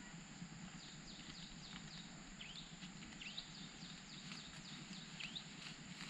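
Faint outdoor ambience of small birds chirping, with short sharp calls several times a second, over a steady high-pitched tone.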